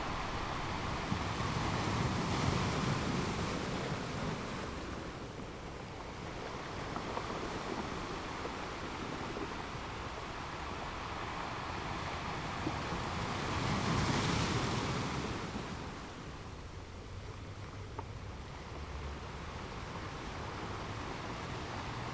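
Ocean waves breaking on a beach, a steady wash of surf that swells twice, a few seconds in and again about two-thirds through, then eases off.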